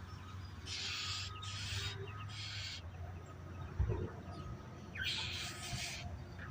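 Birds giving harsh, raspy hiss-like calls, three in quick succession and one more about five seconds in, each about half a second long, during a fight between small birds and buzzards.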